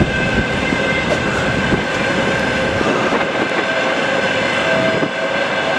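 Passenger train rolling across a steel rail bridge: a steady rumble and rush of wheels on the rails, with faint thin steady tones above it.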